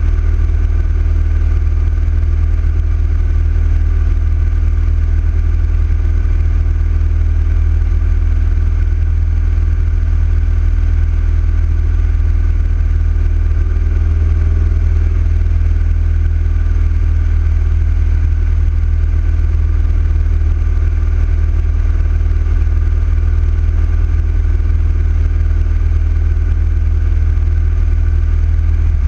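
Big-bore Yamaha XV1900 V-twin motorcycle engine running at a steady cruising speed, with a deep, even drone and no change in revs.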